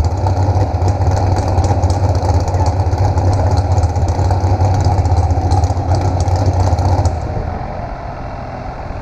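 An engine idling steadily, then dropping away sharply about seven seconds in.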